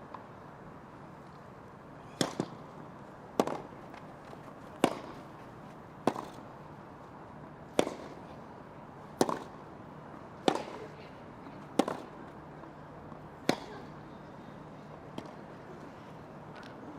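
Tennis rally: racket strikes on the ball, a sharp pop roughly every one and a half seconds, about ten shots in all, over a quiet background.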